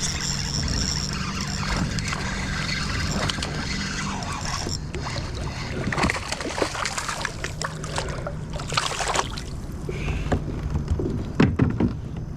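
Water splashing and lapping around a kayak, with a steady low hum that comes and goes, and a few sharp knocks against the hull in the second half.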